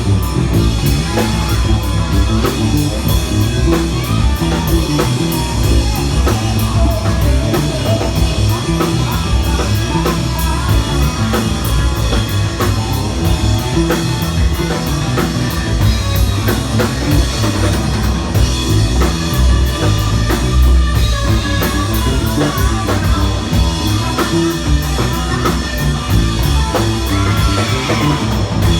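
Hard rock band playing: electric guitar over a drum kit and bass, with the guitar's bending melody line on top and a steady drum beat.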